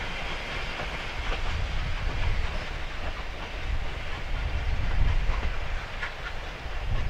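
Steam-hauled train of wooden passenger carriages rolling away along the track, a steady low rumble with a few sharp clicks as the wheels pass over rail joints.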